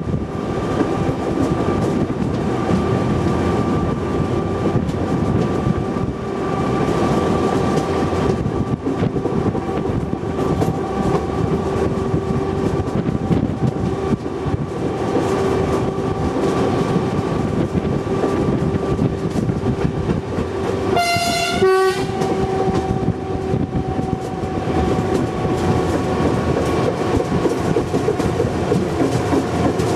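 Running noise of a train heard from the open end platform of a B3yG coach: wheels rolling on the rails with a steady hum. One short horn blast sounds about two-thirds of the way through.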